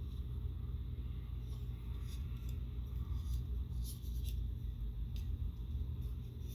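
Plastic Transformers toy being handled, with scattered light clicks and rubs of plastic over a steady low hum.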